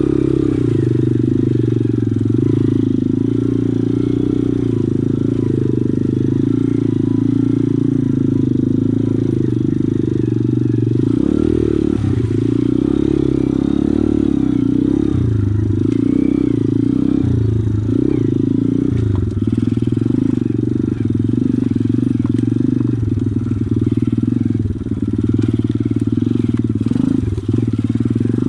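Pit bike's small single-cylinder engine running as it is ridden, steady at first, then its revs rising and falling from about eleven seconds in.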